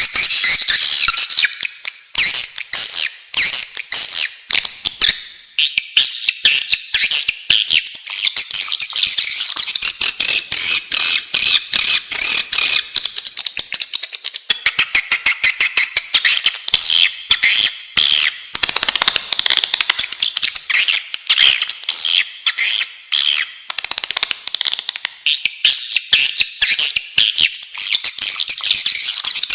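Swiftlet lure call: a dense, unbroken stream of rapid twittering chirps and clicks. This is the recording played at swiftlet houses to draw the birds in to nest.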